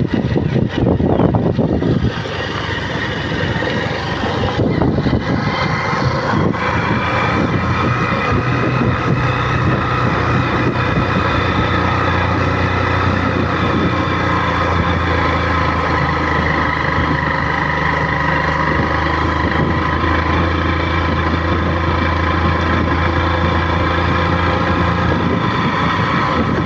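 Motor vehicle engine running steadily while driving, with rough jolts in the first two seconds.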